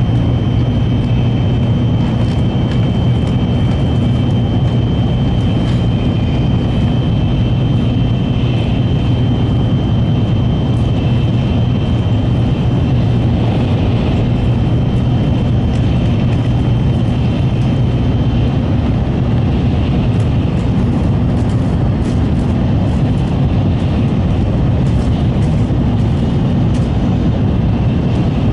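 N700-series Shinkansen running at speed, heard inside the passenger car: a steady, even rumble with a faint high whine over it that fades in the second half.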